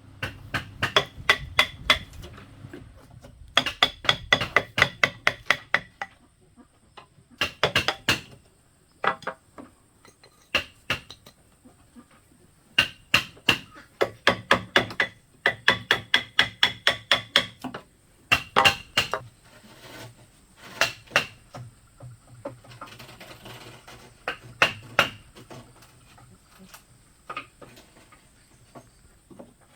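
Hammer blows on bamboo during wall building, coming in quick runs of several strikes a second with short pauses between runs, each blow ringing briefly.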